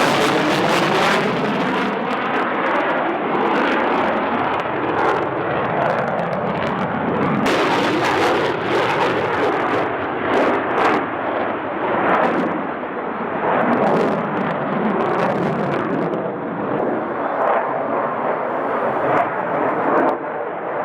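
Jet fighter aircraft engine noise, loud and continuous, its pitch sliding up and down.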